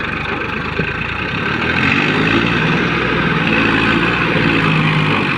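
Tractor diesel engine running steadily, with a deeper engine note coming in about two seconds in.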